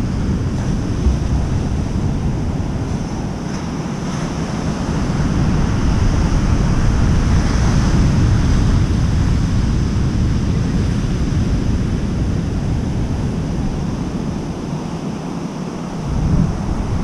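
Wind buffeting the microphone over a steady rush of surf, the rushing swelling for a few seconds about a third of the way in.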